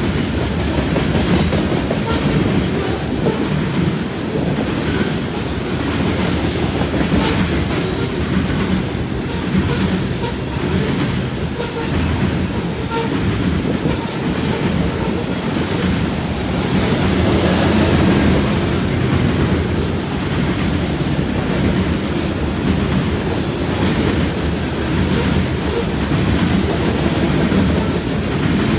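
Covered hopper cars of a CN freight train rolling past, a steady rumble with the wheels clacking over the rail joints and brief high wheel squeals now and then.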